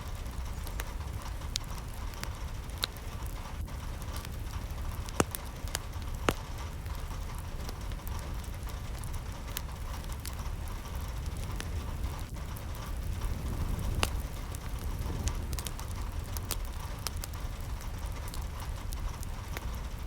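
Steady rain with a low rumble and scattered sharp drops ticking and plinking on a hard surface.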